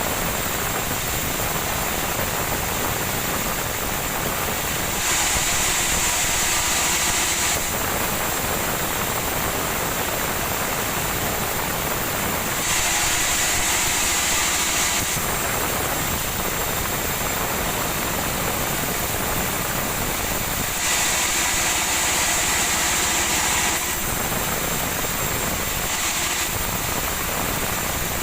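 Woodworking machine running steadily, with a louder, higher-pitched cutting noise lasting a couple of seconds about every eight seconds, three times, and once more briefly near the end, as pieces of sonokeling wood are fed through.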